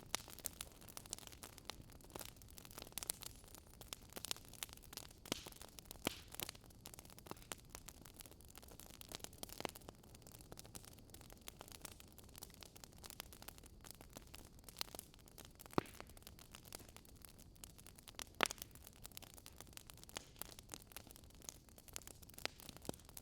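Wood fire crackling: irregular sharp pops and snaps over a low, steady hiss, a couple of louder pops in the second half.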